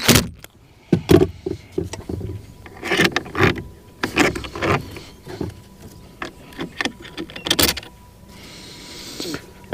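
Irregular clicks, taps and knocks of hand tools and small parts being handled during work on a boat's remote control.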